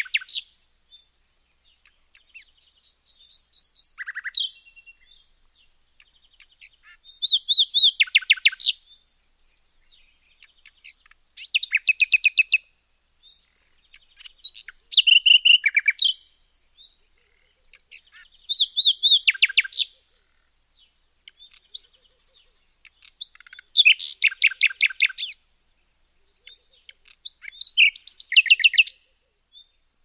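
Bird song: phrases of rapid chirps and trills, each one to two seconds long, repeated about every four seconds, with fainter chirps between them.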